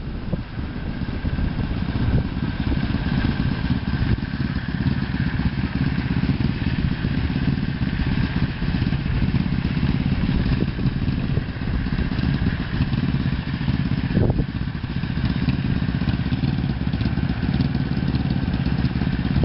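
Honda VF500F Interceptor's V4 engine running at low speed as the motorcycle weaves through a cone slalom, growing louder over the first couple of seconds and then holding steady.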